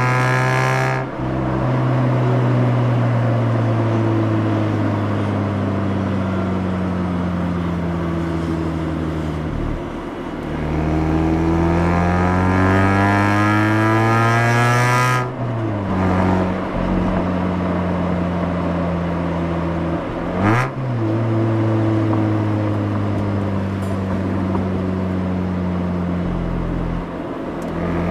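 Mazda RX-8's twin-rotor Wankel (rotary) engine heard through its exhaust while driving. The note drops sharply about a second in and again halfway, each time as the throttle closes. Between these it falls slowly as the car coasts, then climbs under acceleration, with one quick sharp throttle blip about two-thirds of the way through.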